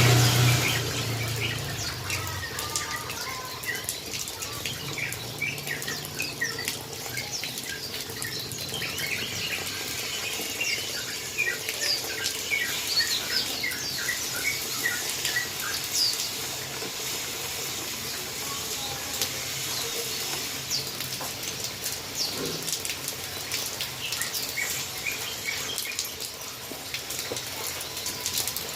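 Steady hiss of a rain-like water spray used to bathe a yellow-vented bulbul, with the bird's short chirps scattered over it, busiest in the middle. A low hum fades out in the first couple of seconds.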